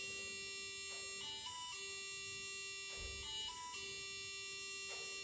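A BBC micro:bit playing a short electronic melody of buzzy beeping notes through the boat's small speaker and sound amplifier, set off by pressing button A. The same short phrase repeats about every two seconds.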